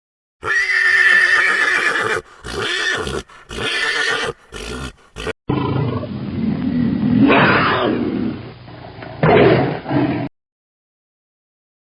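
Horse neighing in several bursts for about five seconds. It is followed by an abrupt change to a different, lower animal call from another recording, lasting about five seconds and ending suddenly.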